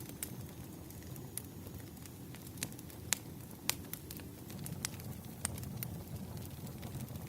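Burning firewood crackling: irregular sharp pops and snaps over a low, steady rumble of the fire.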